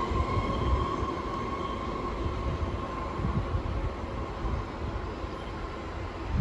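Sydney Metro train's electric traction motors whining at a steady pitch over a low rumble of wheels on rail, the whine fading away.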